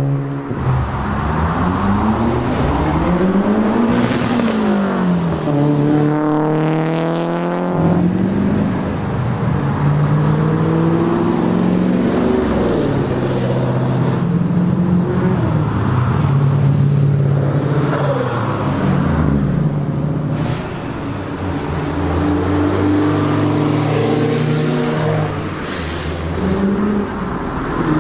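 Several sports cars driving off one after another, their engines revving and accelerating, the pitch climbing and dropping with each throttle blip and gear change.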